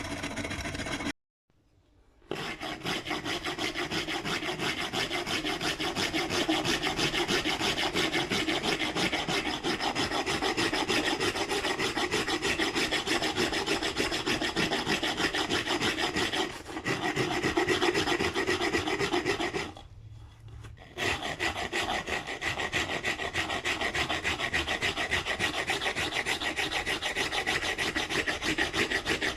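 Steady scraping of a tool rasping or sanding wood. It is broken by a sudden drop to silence about a second in and by a brief quieter stretch about twenty seconds in.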